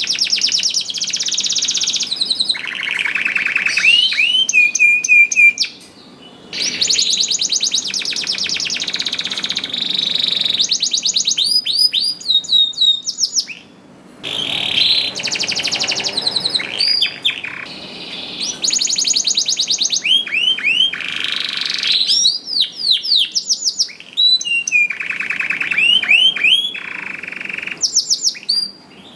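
Domestic canary singing a long, continuous song of rapid trills and rising sweeping whistles, with brief pauses between phrases.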